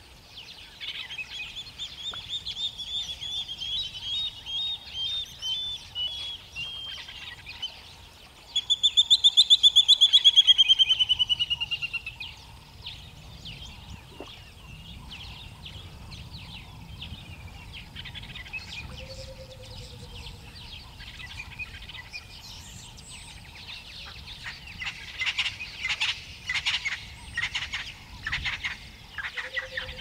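Wild birds calling. A run of whistled notes steps down in pitch over several seconds, then a loud rapid trill falls in pitch for about three seconds, about nine seconds in. Near the end comes a burst of dry, chattering notes.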